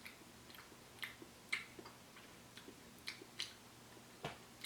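Faint, irregular wet clicks of a mouth chewing a peach gummy candy, about two a second.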